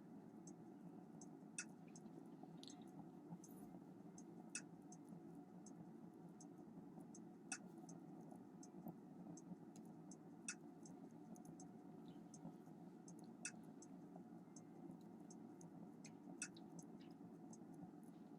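Near silence: room tone with a steady low hum and faint scattered clicks, a sharper click coming about every three seconds.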